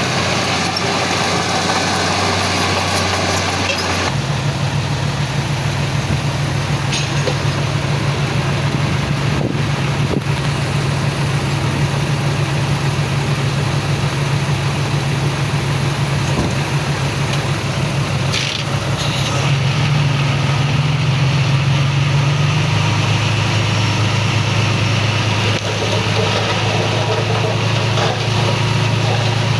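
Heavy diesel machinery engine running steadily; its pitch steps up about four seconds in, rises again around twenty seconds and drops back a few seconds later.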